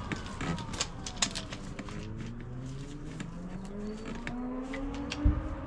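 Sander and Bluetooth-paired DeWalt Flexvolt dust extractor motors winding down, then the motor pitch slowly rising as they run up again. Scattered clicks, and a short low thump near the end.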